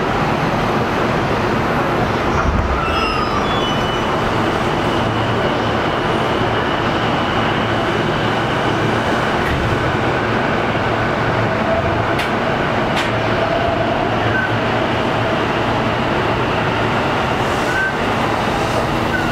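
Keihin-Tohoku Line E233-series electric commuter train running between stations, heard from inside the car: a steady, loud rumble of wheels on rail with a faint whine rising and falling in the middle.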